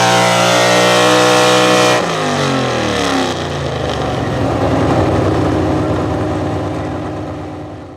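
Pro stock four-wheel-drive pulling truck's engine running flat out at steady high revs, then dropping off about two seconds in as the throttle is let off at the end of the pull, winding down and fading away.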